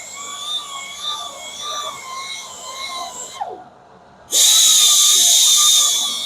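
A high-speed power grinder whines with a wavering pitch as it grinds curb rash out of an alloy wheel rim. After a short break about three and a half seconds in, it comes back much louder and hissier for about two seconds.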